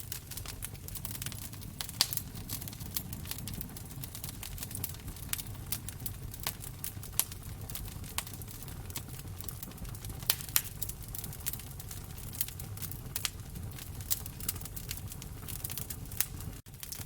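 Wood fire crackling in a fireplace: irregular sharp pops and snaps over a steady low rumble of the flames, with a brief dropout near the end.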